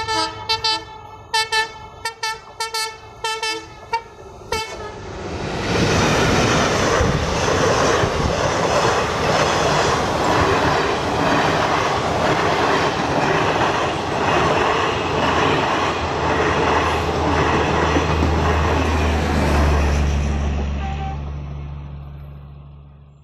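Indian Railways locomotive horn sounding a rapid series of about ten short blasts as the train approaches the level crossing. Then a Garib Rath express's AC sleeper coaches pass close by, a loud rush with a regular clatter of wheels over rail joints, fading away near the end.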